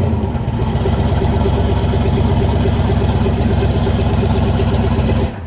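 Car engine idling loudly and steadily, then cutting off abruptly about five seconds in.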